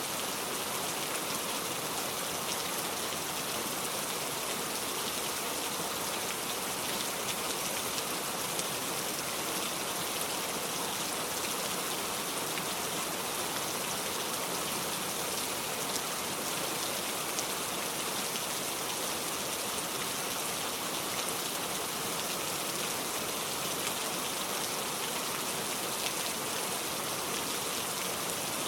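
Steady rain falling, an even hiss with fine scattered drop ticks, strongest in the high end and unchanging.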